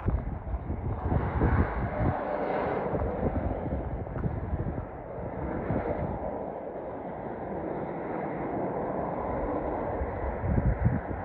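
Road traffic going by, a steady rush of vehicle and tyre noise, with wind buffeting the microphone in the first two seconds and again near the end.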